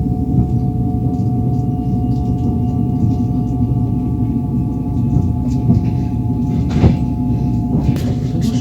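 Train running on the rails, heard from inside the carriage: a steady low rumble with faint ringing tones over it, and a sharp wheel knock about seven seconds in.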